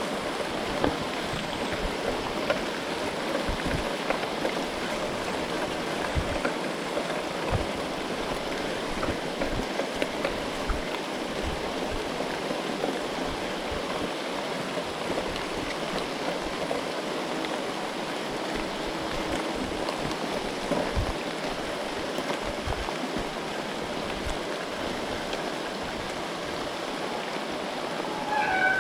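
Heavy rain falling steadily, a continuous rushing hiss, with frequent low bumps on the microphone.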